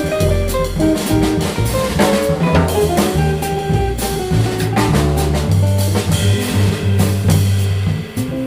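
Jazz trio playing: a drum kit with cymbals and snare strokes keeping time, a bass moving through low notes, and a lead instrument playing a melodic line above them.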